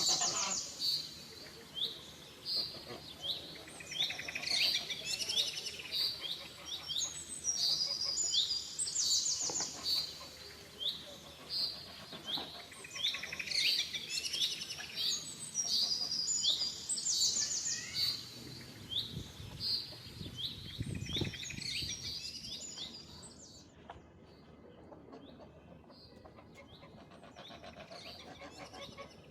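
Small birds chirping over and over in quick, high, sweeping notes, stopping about three-quarters of the way through. A brief low rumble comes shortly before the chirping stops.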